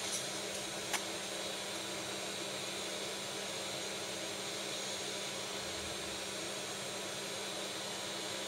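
Steady fan whir and hiss with a faint constant hum, as from the cooling fan of a small DIY 2500 mW diode laser engraver running. There is one sharp click about a second in.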